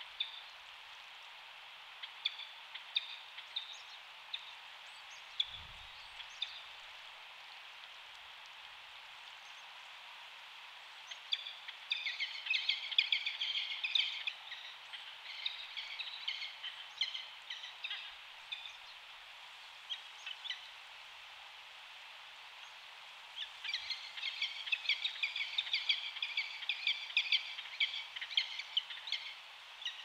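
Birds chirping and calling over a steady outdoor hiss: a few scattered single chirps, then two busy stretches of rapid, high twittering, one in the middle and a longer one near the end.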